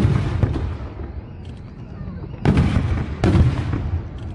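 Aerial firework shells bursting overhead. The rumbling tail of one boom fades at the start, then two deep booms follow less than a second apart a little past halfway, each trailing off in a rumble.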